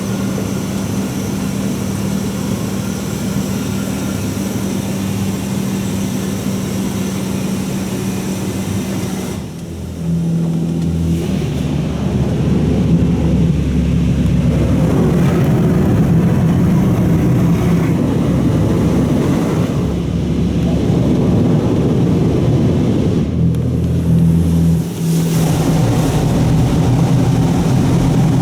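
Oasis Typhoon touch-free automatic car wash running, heard from inside the car: a steady pump hum with water spraying against the car. The sound changes stage about nine seconds in, gets noisier from about twelve seconds, and shifts again a little before the end.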